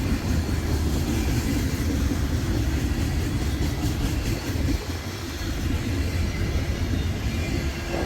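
Loaded freight train tank cars rolling past close by: a steady, loud rumble of wheels on rail, with no break.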